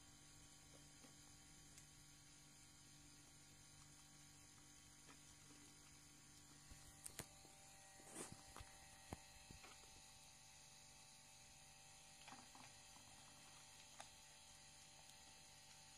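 Near silence: a faint steady electrical hum, with a few faint clicks and taps about halfway through.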